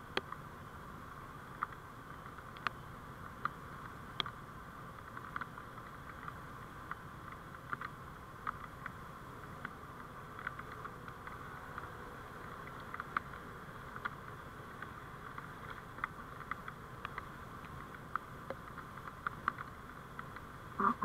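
Steady driving noise of a vehicle on the road as picked up by a dashcam microphone, a constant hum with many small scattered clicks and ticks.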